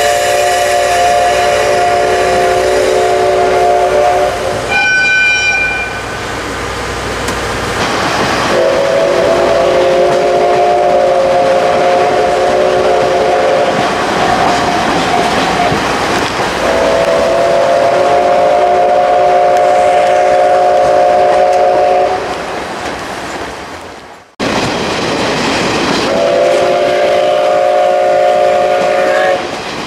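Steam locomotive whistle of the SL Ginga (C58 239) blown in four long blasts, each a chord of several steady tones, over the rushing noise of the train. There is a brief higher, thinner toot about five seconds in, and the sound breaks off abruptly about two-thirds of the way through before the last blast.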